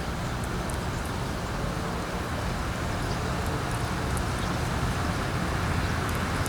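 Steady wind rumbling and hissing, with a few faint, brief high chirps of small birds.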